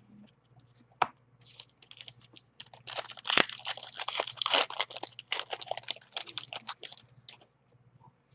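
A card pack's wrapper being torn open and crinkled by hand, a dense run of crackly rustling and tearing that is loudest in the middle and dies away near the end, after a single knock about a second in.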